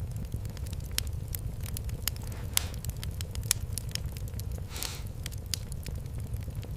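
Wood fire in a fireplace crackling, with irregular sharp pops over a steady low rumble, and a short hiss about five seconds in.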